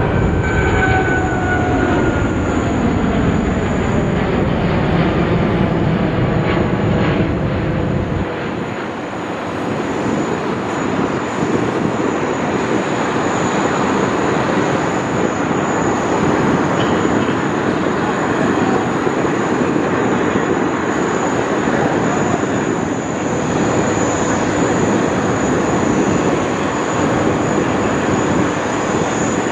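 Boeing 777X airliner flying past with its two GE9X turbofan engines running. The engine whine falls in pitch just as it passes, followed by a steady rush of jet noise. The deep rumble fades about eight seconds in.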